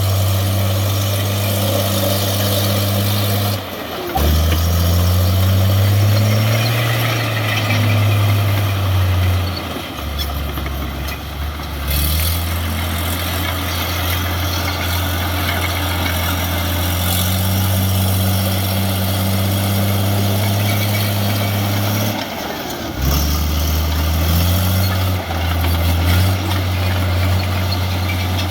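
Heavy diesel engine running steadily. Its note briefly drops and then climbs as it revs up, about four seconds in and again near the end.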